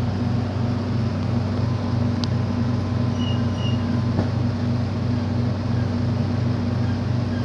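Large engine idling at a truck depot, a steady low drone with an even pulse.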